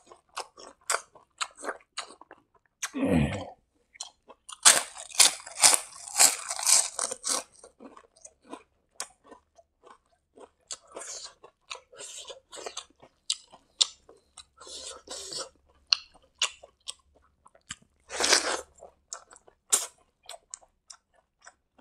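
Close-miked mouth sounds of a person chewing a mouthful of rice and greens eaten by hand: wet chewing clicks throughout, with crunchy bites. The loudest, densest crunching comes about five to seven seconds in, another burst near the end, and a brief low sound falling in pitch about three seconds in.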